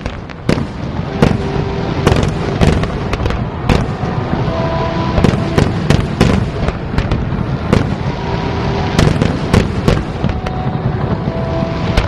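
Fireworks display: a dense, loud barrage of aerial shells bursting, with many sharp bangs in quick succession over continuous crackling.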